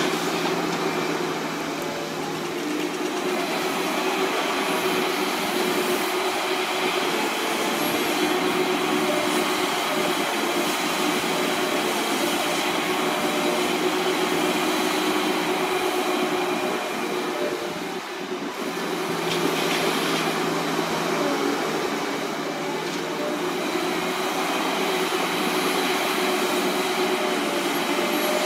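Steady mechanical noise of heavy machinery or vehicles running, a dense hiss with a few steady tones in it, dipping briefly about eighteen seconds in.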